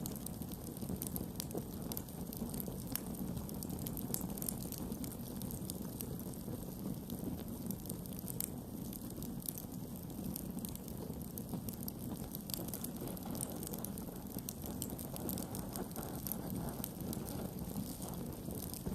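Campfire burning, the wood crackling with frequent small sharp pops over a steady low rumble.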